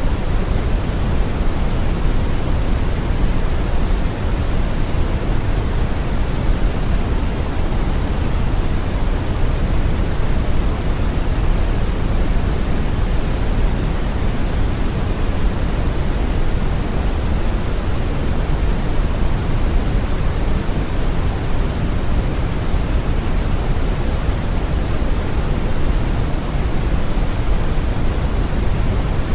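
Steady brown noise: a deep, even hiss weighted toward the low end, with no change or events.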